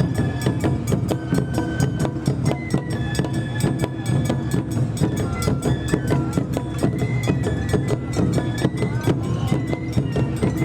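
Traditional Japanese summer-festival music: fast, dense drum and percussion strikes under a high melody of held notes that step up and down in pitch.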